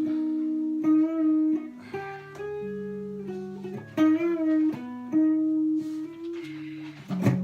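Guitar playing a slow phrase of held notes and chords, each struck sharply and left to ring, with a louder strum near the end.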